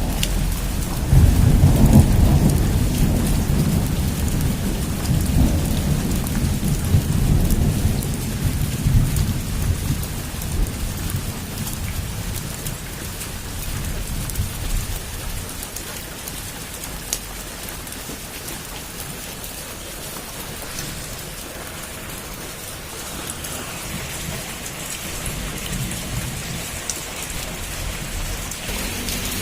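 Heavy rain pouring steadily on a roof, with a long low rumble of thunder in the first third that dies away.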